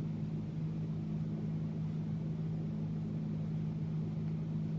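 Steady low machine hum made of a few fixed low tones, unchanging throughout.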